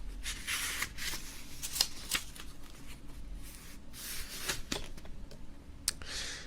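Soft, breathy hisses and a few small sharp clicks close to a microphone.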